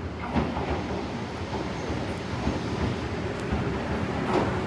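Izu Hakone Railway electric train running in toward the platform, its low rumble slowly growing louder as it nears, with two sharp clacks, one near the start and one near the end.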